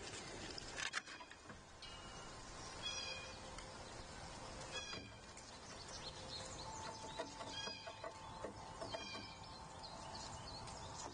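Birds calling at a feeder: four short, cat-like calls a couple of seconds apart, with light tapping in between.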